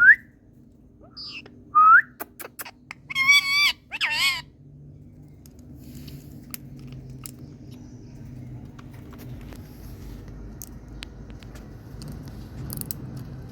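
Indian ringneck parrot calling: short rising squawks at the start and about two seconds in, then two longer wavering calls around three and four seconds in. After that only faint clicks and low background noise.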